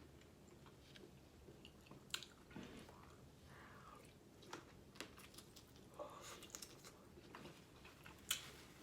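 Soft, close chewing of lobster meat: faint wet mouth clicks and smacks come at irregular moments, with one louder click near the end.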